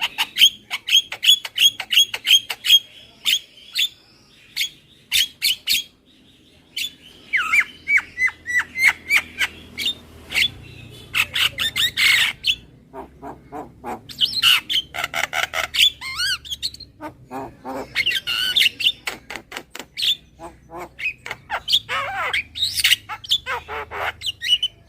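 Javan myna (jalak kebo) calling: a fast run of sharp repeated notes at first, then bouts of harsh squawks and short falling whistles with brief pauses between them, a lure call.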